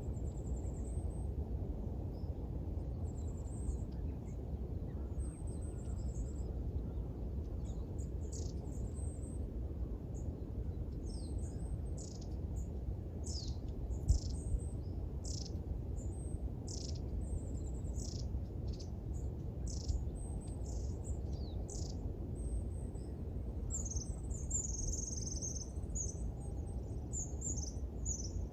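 Small songbirds calling: thin high chirps, then a long run of quick down-slurred calls, and a brief burst of twittering near the end. Under them runs a steady low background rumble, and a single sharp tick comes about halfway.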